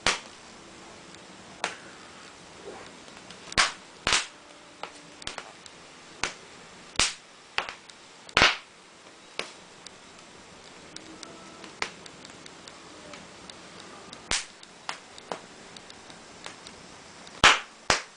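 Wood fire burning in a fireplace, crackling with sharp pops at irregular intervals over a faint steady hiss; the loudest pop comes near the end.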